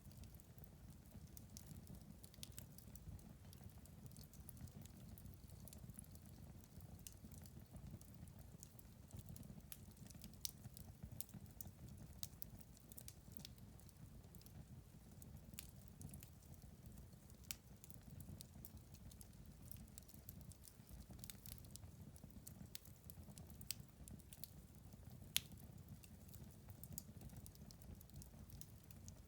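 Wood fire crackling in a fireplace: faint, irregular sharp crackles and pops over a low steady rumble of the flames, with one louder pop near the end.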